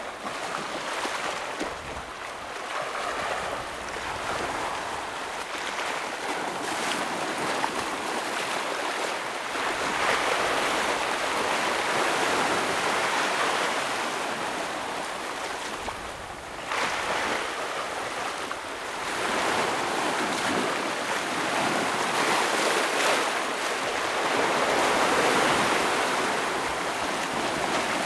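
Ocean waves breaking and washing over shoreline rocks, a continuous rushing surf that swells and ebbs every several seconds.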